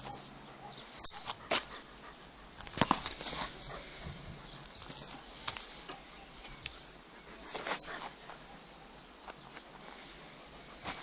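A dog moving about, with scattered sharp taps and rustles a few seconds apart.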